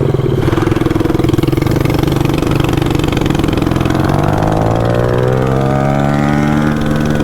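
Small gasoline engine running steadily at low speed, then its speed climbs smoothly from about four seconds in and holds higher.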